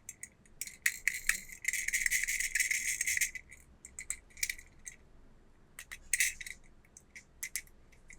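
Toy packaging being handled in an unboxing: scattered light clicks and rattles, with a dense crackling rustle lasting about a second and a half starting a couple of seconds in.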